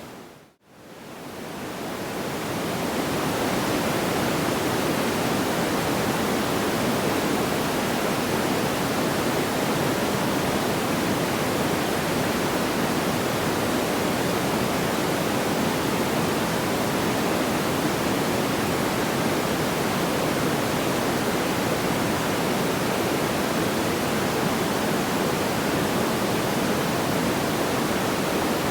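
Steady, even rushing noise like pink noise, with no distinct crackles or pops. It dips briefly to near silence about half a second in, then fades back up over the next few seconds, as at a loop point.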